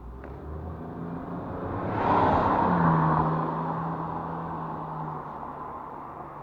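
A motor vehicle passing by: its engine and tyre noise swell to a peak about two to three seconds in, then fade away.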